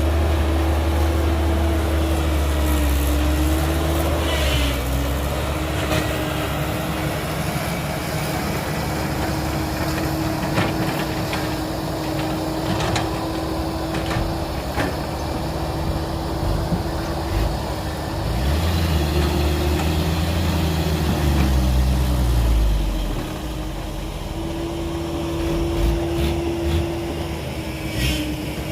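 Heavy diesel earthmoving machinery running, with a steady whine and scattered knocks and clanks. About two-thirds of the way through, an engine revs up and then falls back.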